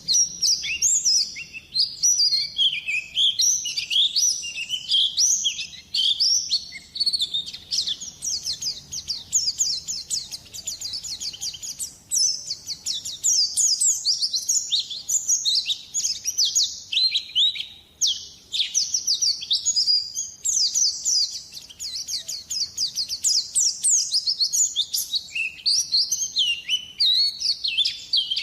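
White-eye (pleci) singing a fast, unbroken twittering song of rapid high chirps and trills, with a couple of short pauses.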